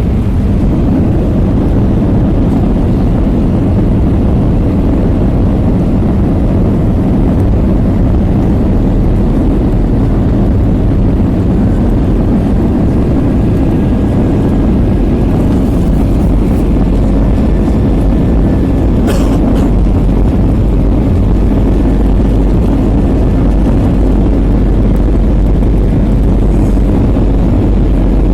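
Steady low rumble of engines and airflow inside the cabin of an Airbus A320. A faint high whine comes in about halfway through, and there is a brief click near the middle.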